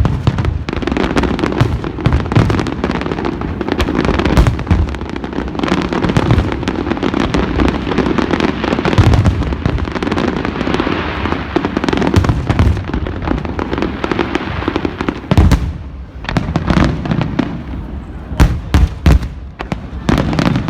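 Fireworks display: a dense, continuous barrage of bangs and crackling, with a short lull late on and then a few sharp, separate bangs near the end.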